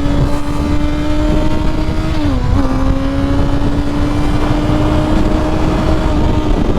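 Honda CBR600F4i inline-four engine running at a steady high pitch under way, with a brief dip in pitch a little over two seconds in before it settles back. Wind rumble runs underneath.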